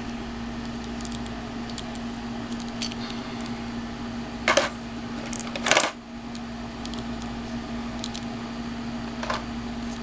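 Light plastic clicks and taps from handling a small action figure and its parts, with two louder knocks a little before and after the middle, over a steady low hum.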